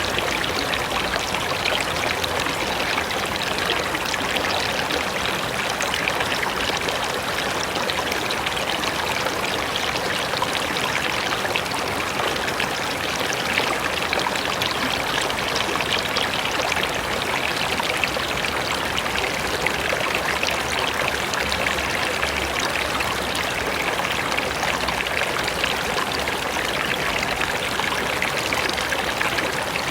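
Flowing river water rushing steadily over rocks, a continuous even splashing and burbling.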